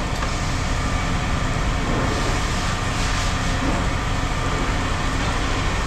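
Steady hum of running machinery, even and unbroken.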